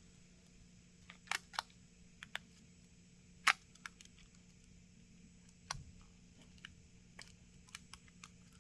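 Scattered faint clicks and taps of small parts and tools handled on an opened smartphone as a flex-cable connector and parts are fitted, the sharpest click about three and a half seconds in. A faint steady hum runs underneath.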